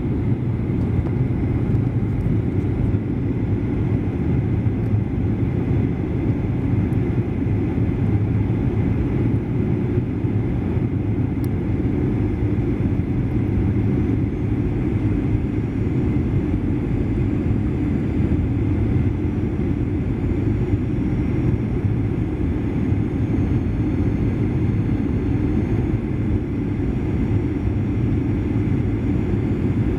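Steady, low cabin noise of a Boeing 737-800 heard from inside the cabin: the constant rumble of its engines and airflow, unchanging throughout.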